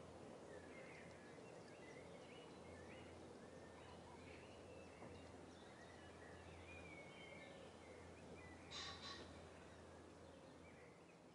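Faint birdsong, with several birds giving short chirps and warbled phrases over a steady low hum. About nine seconds in there is a brief louder burst, and the sound fades toward the end.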